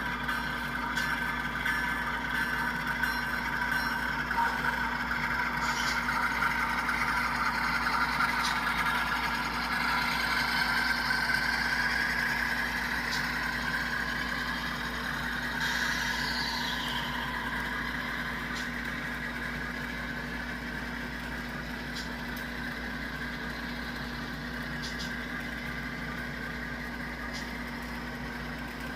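Model freight train running on the layout: a steady motor hum and wheel-on-rail noise that grows louder toward the middle as the train comes closest, then slowly fades, with a short falling squeal about sixteen seconds in.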